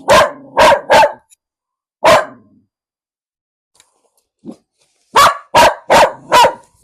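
Dog barking in loud volleys: three quick barks and a fourth about a second later, a pause, then four more quick barks near the end.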